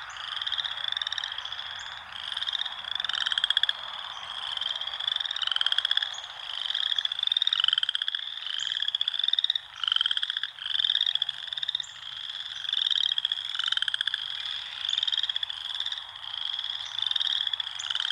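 Chorus of frogs: many short, rapidly pulsed high-pitched calls overlapping without a break, several calls a second.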